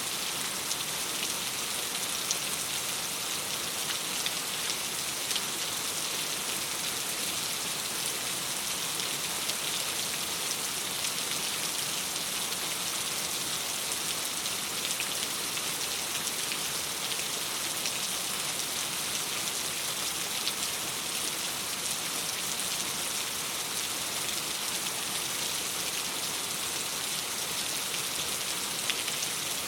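Steady rain on a window: an even hiss with scattered small ticks of drops.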